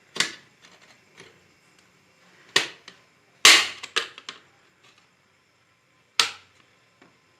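Plastic snap-on cover plate of a modular switch board being pried off with a tester screwdriver: its clips click loose in about six sharp snaps spread over several seconds. This is the normal sound of the clips letting go, not the plate breaking.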